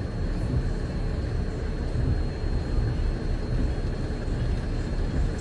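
Steady low rumble of a vehicle's running engine and road noise, with a thin, steady high whine above it.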